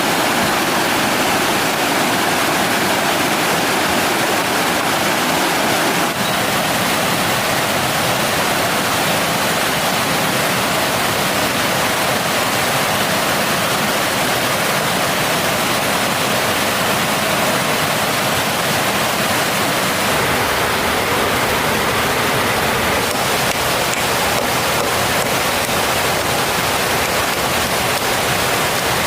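Mountain stream water rushing and splashing over rocks, a loud, steady noise close by.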